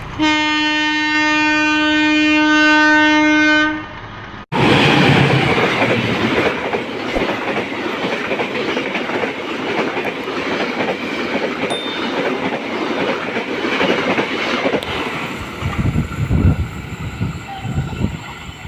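KAI CC206 diesel-electric locomotive's horn sounding one long steady blast. After a sudden cut, the passenger coaches rumble past with a clickety-clack of wheels over the rail joints. The sound thins out near the end as the train draws away.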